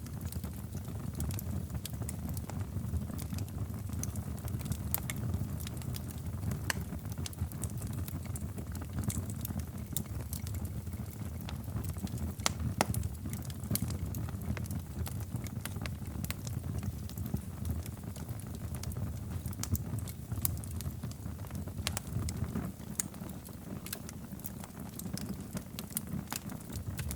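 Wood fire in a fireplace crackling, with irregular sharp pops and snaps over a low, steady rumble of the flames.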